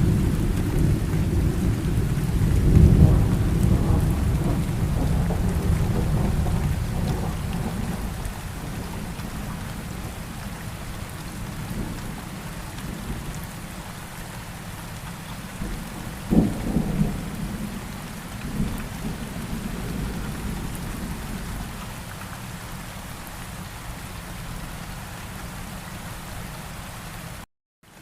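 Steady rain with thunder: a long low rumble swells about three seconds in and slowly fades, then a sharper thunderclap comes about sixteen seconds in, followed by a shorter rumble. The sound cuts out briefly just before the end.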